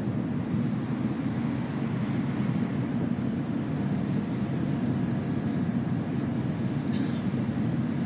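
Steady low rumble inside the passenger cabin of an N700A Tokaido Shinkansen train running on the line, with one short click about seven seconds in.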